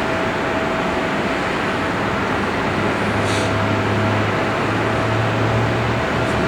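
Boeing 747-400's jet engines running at take-off power: a steady, even rush with a constant whine, and a low hum that grows stronger about three seconds in.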